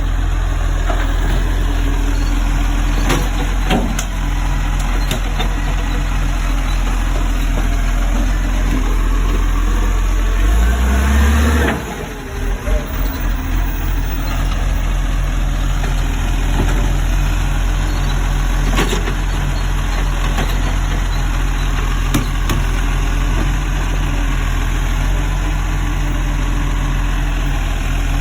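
Garbage truck engine idling steadily, its note rising and swelling briefly about eleven seconds in before settling back to idle.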